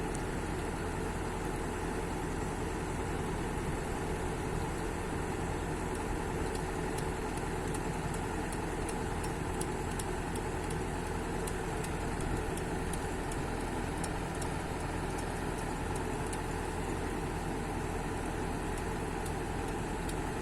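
An engine idling steadily, with faint scattered light ticks over it.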